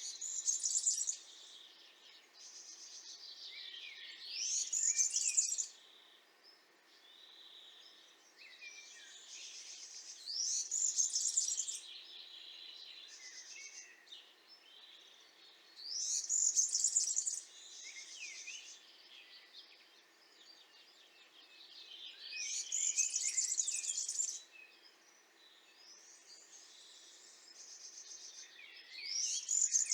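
European serin singing: a high-pitched burst of song about every six seconds, each lasting a second or two, with softer song between the bursts.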